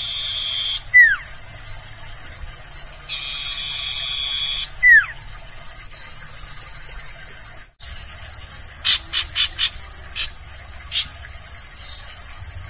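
Barn owl screeching: two harsh, hissing screams of about a second and a half each, each ending in a short, sharp falling whistle. After a brief break, a quick run of about four short clicking notes follows, then a few single ones.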